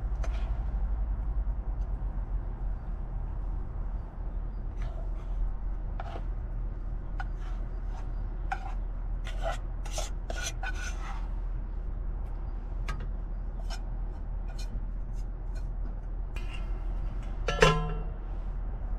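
Metal pots and cooking utensils being handled: scattered light clinks and knocks, a busier run of them midway, and one loud ringing metal clank near the end, over a steady low hum.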